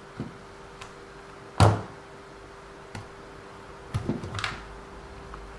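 RC car parts and tools being handled and set down on a work surface: a few separate sharp knocks, the loudest about one and a half seconds in, and a short clatter about four seconds in.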